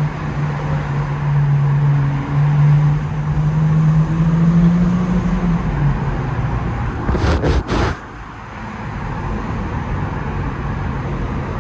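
Muffler-deleted Infiniti Q50's exhaust running in slow traffic: its steady drone rises slowly in pitch for about six seconds, then drops as the throttle eases. A brief three-part burst of noise comes about seven seconds in.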